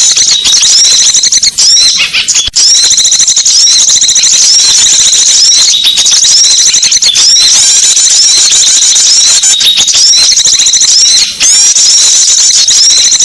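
Loud, dense, rapid high-pitched chirping of small songbirds, a bird-lure call recording used to attract small birds, broken by a few brief pauses.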